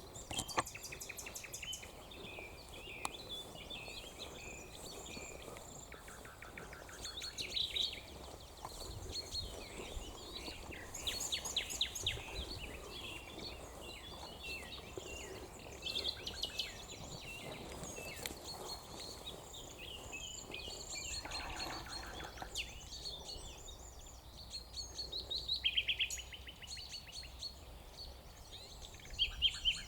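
A mixed chorus of wild songbirds, with many overlapping chirps, twitters and rapid trills, several species at once. Louder trilling phrases stand out every few seconds, over a faint low rumble.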